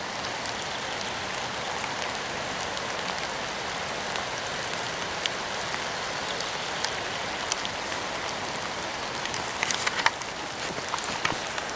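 Steady rain falling, with single drops ticking close by; a cluster of louder drop hits comes about ten seconds in.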